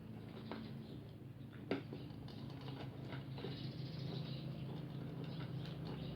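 A person chewing food close to the microphone: a string of small wet mouth clicks and smacks, with one sharper click about a second and a half in. A steady low hum runs underneath.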